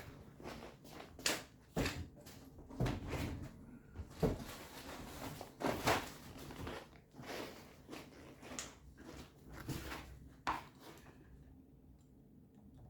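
Irregular knocks, taps and rustles of cardboard template pieces being handled and set down on a bench, stopping about eleven seconds in.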